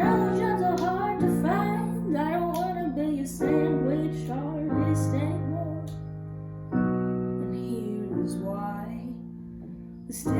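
A woman singing a melody over sustained piano chords that change every second or two.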